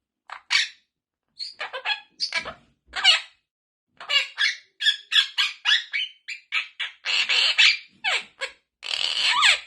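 Quaker parrot (monk parakeet) vocalizing in a string of short, high-pitched chirps and squawks with brief pauses between them. The calls come faster and run longer from about four seconds in, with some falling-pitch notes near the end.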